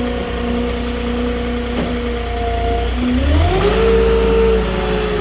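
Moffett truck-mounted forklift's engine running steadily, then speeding up about three seconds in and holding at the higher speed while the forklift handles a pallet of shingles.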